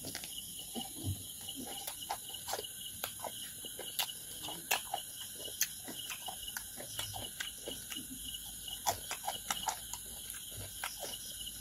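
Close-miked chewing of a mouthful of food, with irregular wet mouth clicks and smacks several times a second.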